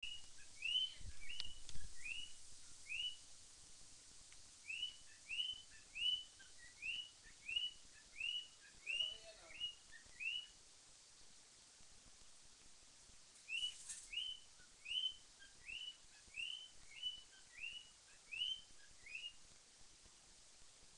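Cockatiel calling faintly, a run of short repeated chirps at about two a second. The chirps stop for a few seconds midway, then start again. A couple of low thumps come near the start.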